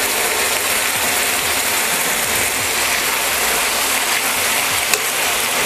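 Hot oil sizzling steadily in a kadhai of frying onions and tomato as wet boiled chickpeas are tipped in, with a single sharp click about five seconds in.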